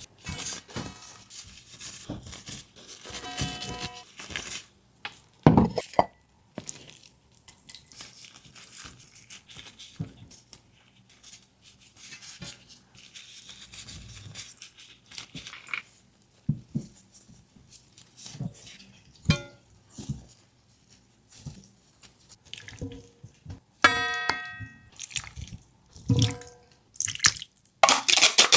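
Kitchen preparation sounds: scattered knocks and clinks of utensils against bowls and dishes, with a couple of ringing strikes on a metal or ceramic bowl, about 3 s in and again near 24 s.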